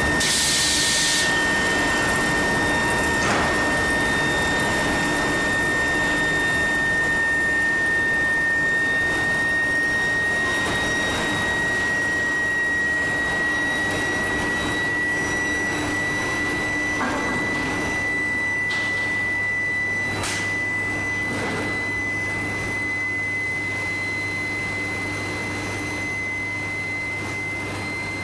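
Steel billet intermediate-frequency induction heating furnace running: a steady high whine that slowly rises in pitch, over a constant machine noise and low hum, with a few brief knocks.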